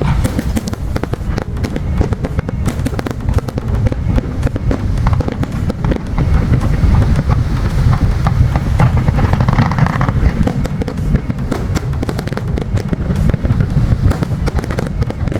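A big fireworks display: continuous booming of aerial shells bursting, mixed with many rapid crackling pops.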